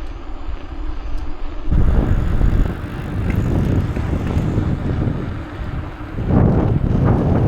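Wind buffeting the microphone of a moving bicycle, a low rushing noise in gusts that pick up about two seconds in and again near the end.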